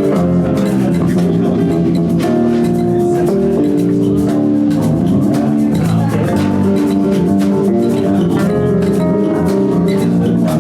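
Live band playing a loud, steady stretch of music, with sustained pitched notes over a drum beat.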